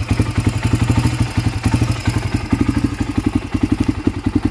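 1997 Honda TRX300EX quad's air-cooled single-cylinder four-stroke engine idling steadily, a rapid, even train of exhaust pulses.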